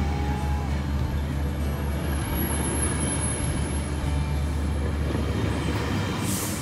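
Metrolink commuter train of bilevel coaches rolling past a station platform at speed: a loud, steady rumble of wheels on rails. A short hiss near the end.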